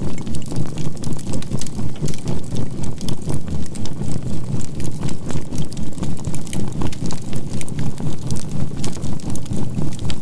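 Crackling bonfire mixed with a steady 528 Hz tone and a low binaural-beat drone that pulses evenly, about four times a second.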